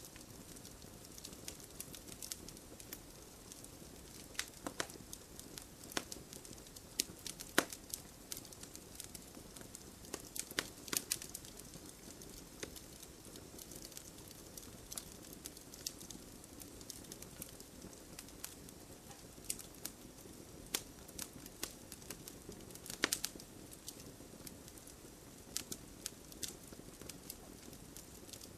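Wood campfire crackling: irregular sharp pops and snaps over a steady low hiss of burning, with a few louder pops about a third of the way in and again past the middle.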